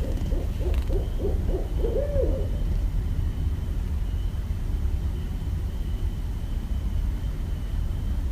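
Barred owl hooting: a quick run of hoots ending in a drawn-out note that rises and falls, about two seconds in, over a steady low rumble.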